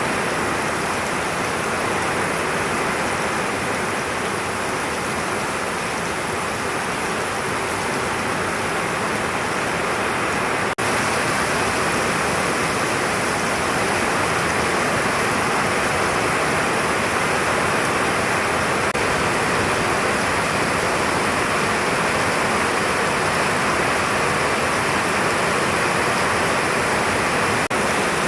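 Steady rain falling, an even hiss of water noise with a momentary dropout about eleven seconds in.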